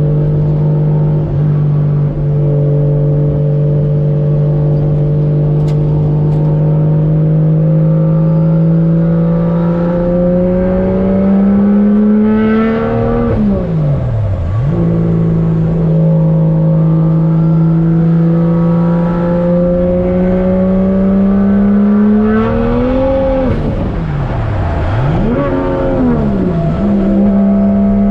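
Toyota 1JZ-GTE VVTi turbocharged inline-six engine running under way. The revs climb slowly twice, then drop sharply and pick back up, with a short hiss near each peak. After the second climb the revs dip and recover twice before settling.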